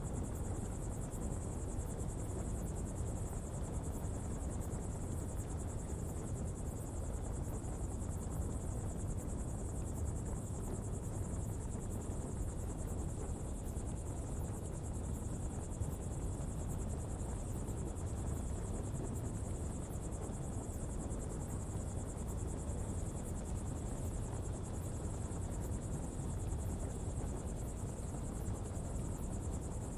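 Coal pottery fire burning steadily with a low rumble, under an unbroken high-pitched insect chorus.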